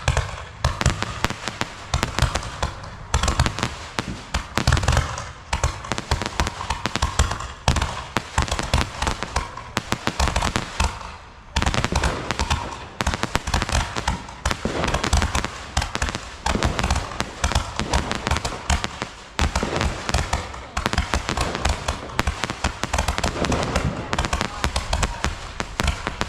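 Fireworks going off in a dense, continuous barrage of rapid bangs and crackles, many per second, with a brief lull about eleven seconds in.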